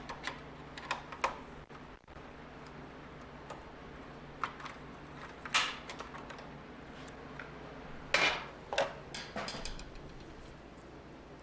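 Scattered metallic clicks and clinks of tools and small metal parts being handled and set down, with the loudest knocks about five and a half seconds and eight seconds in.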